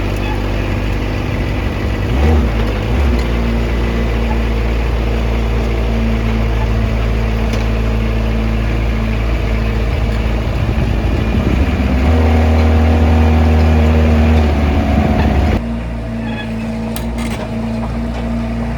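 Excavator diesel engine running steadily. About twelve seconds in it gets louder and deeper as it works harder, then the sound cuts abruptly to a quieter engine hum.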